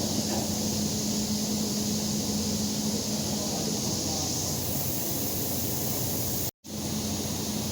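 Steady hissing noise with a low hum, like a running workshop machine or air flow; the hum fades about halfway through, and the sound cuts out for an instant near the end.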